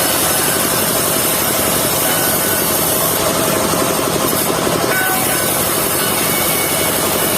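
Portable circular sawmill running steadily, its blade cutting through a log, with the machine's engine running underneath.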